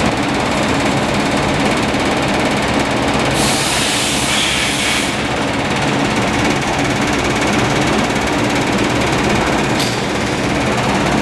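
2007 Yamaha YZF-R6's 600 cc inline-four engine running steadily at an even pitch, with a brief hiss about three and a half seconds in.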